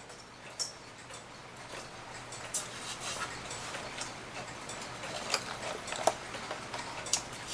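Scattered light clicks and taps over faint rustling, from a wooden cuckoo clock case and its small door being handled.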